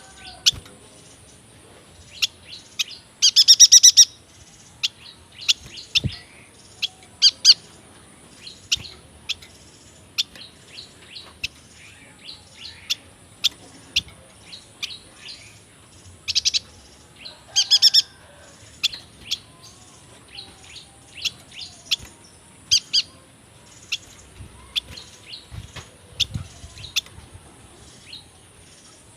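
Yuhina singing: a run of short, sharp high chirps, broken twice by louder rapid trills, once a few seconds in and again about halfway through.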